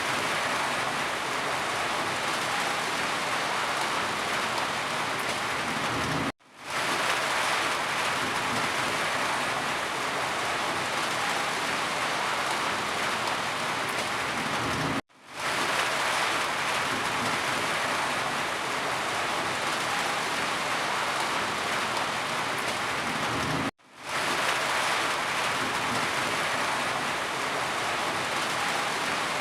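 Steady rain falling, a dense even hiss. Three times the sound drops out for an instant and comes back up, like the joins in a looped recording.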